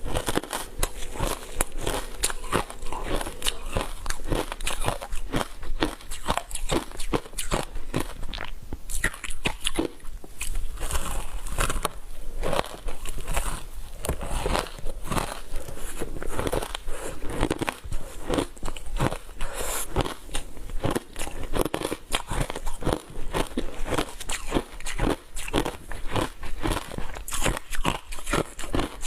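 Ice coated in matcha green tea powder being bitten and chewed, a dense, continuous run of hard crunches and cracks.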